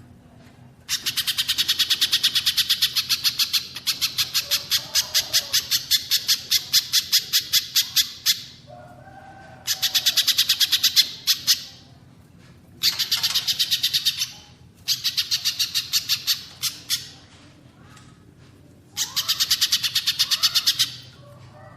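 Recorded songbird calls of a spiderhunter and a cililin: bouts of rapidly repeated sharp high notes, about seven a second, each bout lasting two to four seconds, with fainter lower calls in the pauses. A low steady hum runs underneath.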